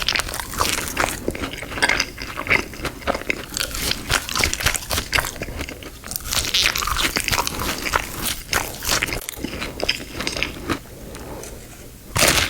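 Crispy hot honey fries being bitten and chewed close to the microphone: dense, crackly crunching. It thins out about two seconds before the end, then comes back with a loud bite.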